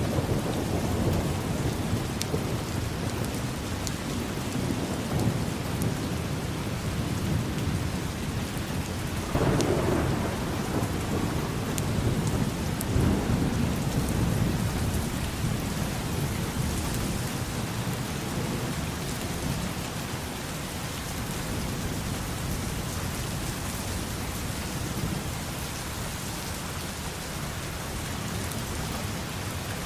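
Steady rain falling, with rolling thunder rumbling underneath that swells about nine to fourteen seconds in and then eases off.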